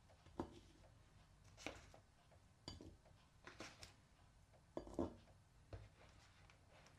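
Quiet room with a few faint, scattered clicks and knocks of small objects being handled, the loudest about five seconds in.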